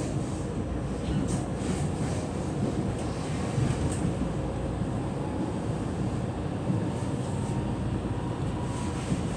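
Passenger train running at speed, heard from inside the carriage: a steady low rumble of wheels on rail, with a few faint clicks.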